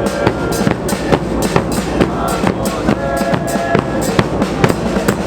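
Loud, drum-heavy music: rapid, uneven drum hits with short held tones over them.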